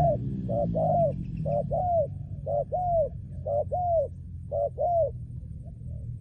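Spotted dove cooing: a run of paired coos, each a short note followed by a longer arched one, about one pair a second, stopping about five seconds in. A low rumble runs underneath.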